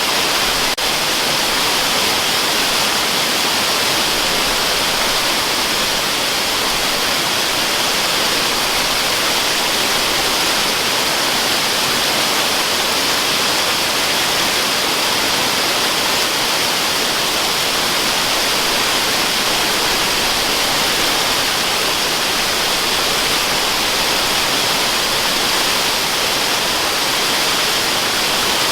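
Waterfall rushing in a steady, even hiss that is heavier in the treble than the bass, used as continuous white noise.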